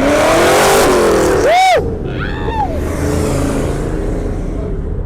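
A car engine revved hard, its pitch climbing then dropping over the first second and a half, followed by a couple of short shouts from onlookers.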